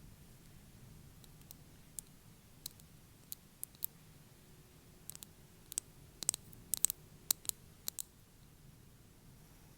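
Fake fingernails tapping, sharp light clicks. A few scattered taps come first, then a quicker flurry of taps in the middle, which stops about two seconds before the end.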